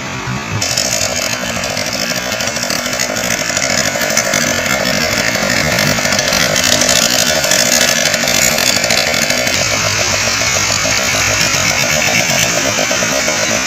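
A boat's engine running with a steady buzz, stepping up in level about half a second in.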